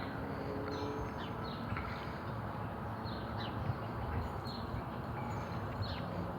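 Outdoor background with a steady low noise, and birds chirping now and then in short, quick falling notes.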